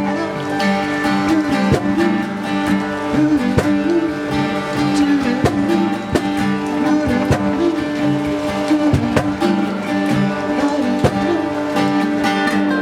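Acoustic guitar playing an instrumental passage, plucked and strummed notes ringing over sustained chords.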